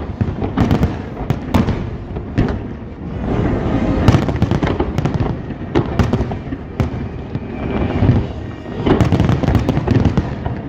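Large fireworks display: aerial shells bursting in rapid volleys, a dense run of sharp bangs and crackling that swells and eases, with fresh clusters of bursts about a second in, around four seconds in and near the end.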